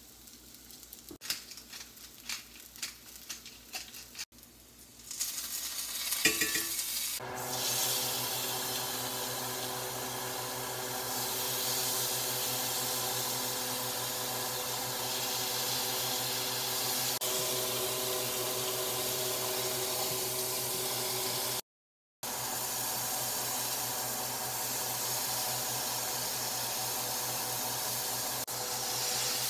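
Deer heart steaks and chopped onions sizzling steadily in a cast iron skillet, with a steady hum underneath. Before that, for the first several seconds, there are only quiet clicks and handling as the steaks are seasoned. The sizzle breaks off briefly about 22 seconds in.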